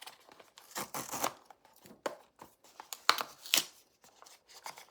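Blind box packaging being torn open and crinkled by hand, in two main rips about one second in and about three seconds in, with lighter rustling between.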